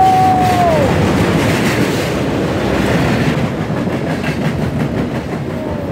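Intermodal freight cars rolling past at close range, a steady loud rumble with wheels clattering over the rails. In the first second a single steady squeal, most likely from the wheels, slides down in pitch and fades.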